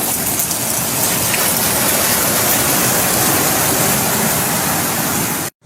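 Steady, loud rush of water from heavy rain or floodwater, cutting off abruptly near the end.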